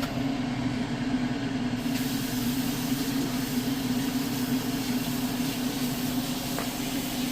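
Steady mechanical hum with a hiss over it, the hiss growing brighter about two seconds in.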